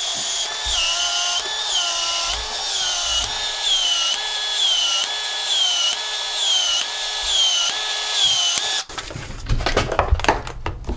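Battery-powered PEX-A expansion tool expanding the end of a half-inch pipe: a motor whine that dips in pitch and recovers about once a second as the head cycles, stopping suddenly about nine seconds in. Handling clatter and knocks follow.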